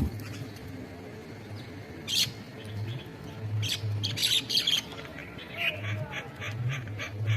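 Bird calling: one sharp high call about two seconds in, a cluster of calls around four seconds, then a quick run of short repeated notes, about three a second, through the rest.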